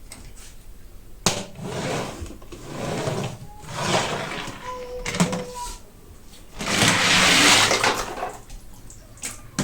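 Hot Wheels toy car packaging being handled and opened: irregular rustling and crinkling of card and plastic, with a sharp click about a second in and a louder stretch of crinkling near the end.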